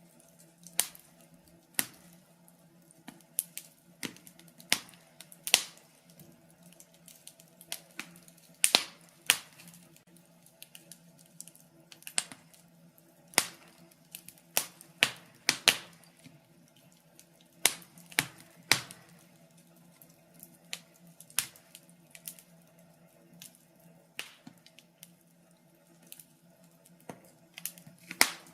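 Wood fire crackling in a fireplace: irregular sharp pops and snaps, a few louder ones among many faint ticks, over a faint steady hum.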